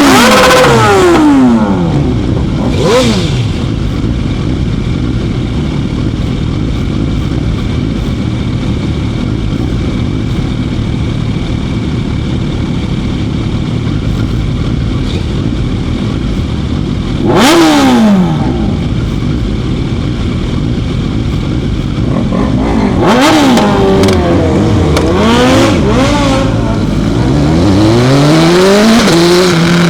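Motorcycle engine revving up and dropping back: a few rises and falls near the start, one past the middle and a quick run of them near the end, with a steady rushing noise between.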